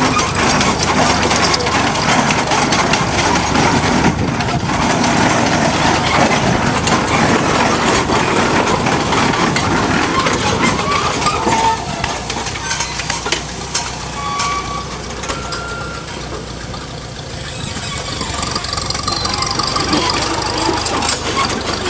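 Heavy vehicle running with a steady rumble and frequent clanks and rattles, easing off somewhat midway.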